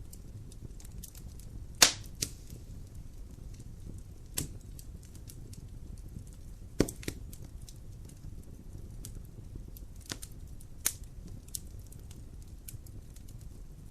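Wood fire crackling in a fireplace: scattered sharp pops and snaps over a low steady rumble, the loudest pop about two seconds in.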